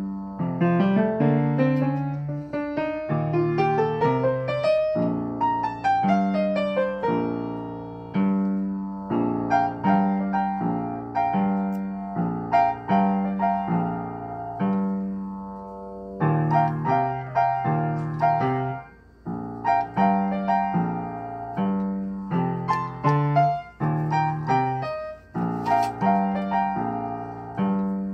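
Piano playing a boogie-woogie piece in B-flat, with a repeating left-hand bass figure under right-hand chords. In the first few seconds a run climbs up the keyboard and comes back down.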